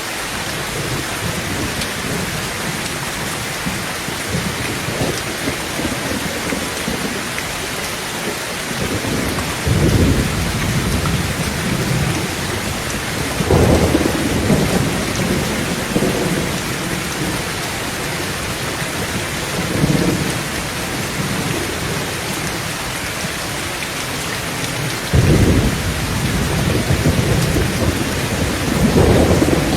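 Heavy rain falling steadily on a tin tent roof, with about five low thunder rumbles, the first about ten seconds in.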